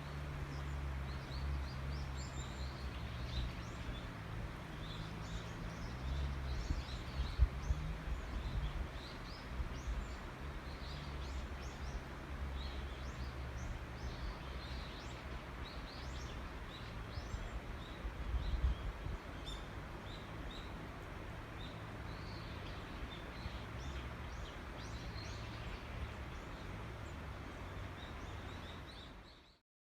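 Small birds chirping and calling many times over, above a steady low rumble with a few dull bumps. The sound fades out near the end.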